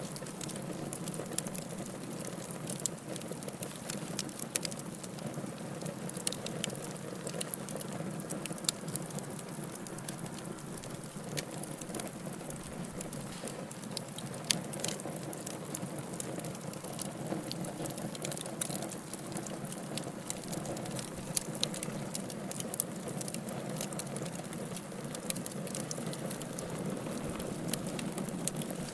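Wood fire in a fireplace crackling: a steady low rush of burning with frequent sharp snaps and pops scattered irregularly, a few louder ones standing out.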